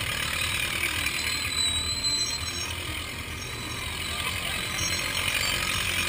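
Tractor engines running steadily with a low rumble under a broad outdoor hiss, and a faint thin high whine now and then.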